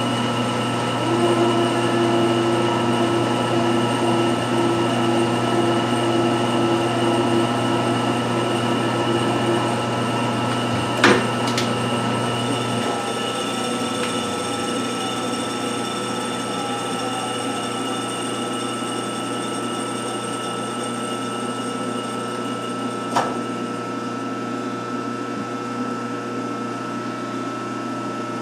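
1952 Wade 7 turret lathe running, a steady machine hum with several held tones. A low part of the hum drops away about thirteen seconds in, with a sharp knock shortly before it and another about twenty-three seconds in.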